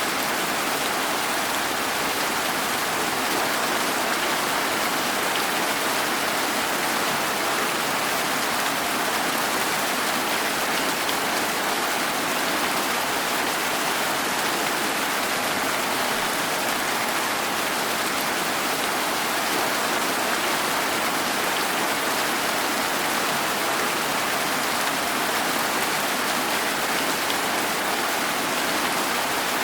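Steady rain falling, an even hiss that holds at one level with no thunder or single drops standing out.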